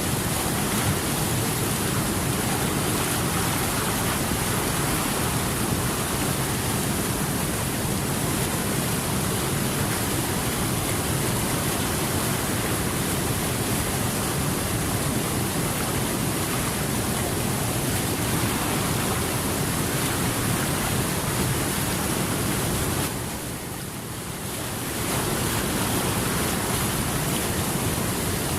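Steady rushing water, an even wash of noise with no distinct events, briefly dropping in level for about two seconds near the end.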